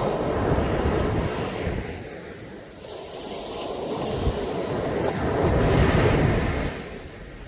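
Caribbean Sea surf breaking and washing on a beach in slow swells: one wash at the start, easing off, then a bigger one building to a peak about six seconds in. Wind buffets the microphone.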